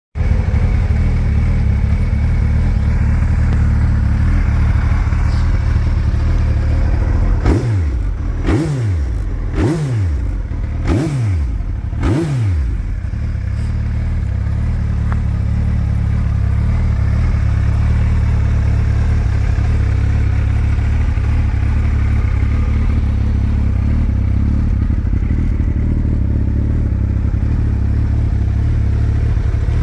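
Suzuki Hayabusa's 1300 cc inline-four engine idling steadily, blipped five times in quick succession between about 7 and 12 seconds in, the revs jumping and falling straight back to idle each time.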